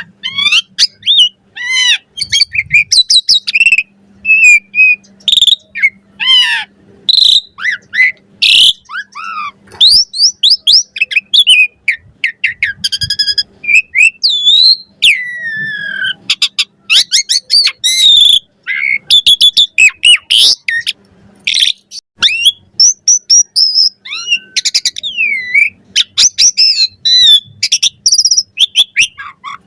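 Asian pied starling (jalak suren) singing a long, varied song: quick strings of whistles, squeaks, chatter and notes gliding up and down, with hardly a pause.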